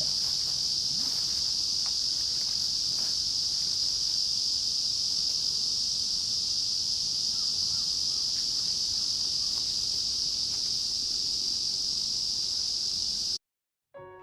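Insects droning in a steady, high-pitched chorus that cuts off suddenly near the end.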